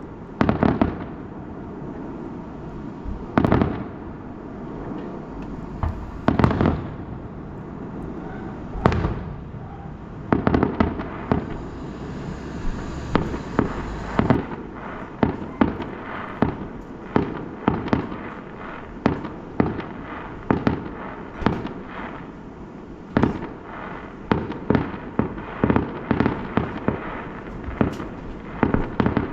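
Fireworks going off: scattered loud bangs early on, then a dense, irregular run of bangs and crackles from about ten seconds in, over a steady rumble.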